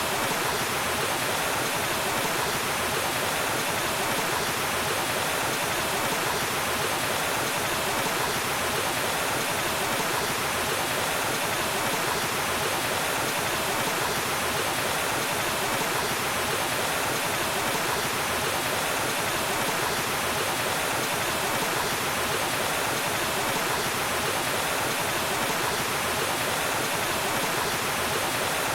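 Waterfall: water falling and rushing in a steady, unbroken hiss that never changes.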